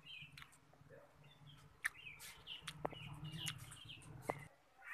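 Faint scattered bird chirps over a low steady hum that stops shortly before the end, with a few sharp clicks.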